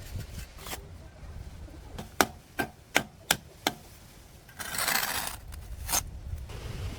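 Chopping on a wooden board: five sharp chops in quick succession, then a short scraping sound and one more chop.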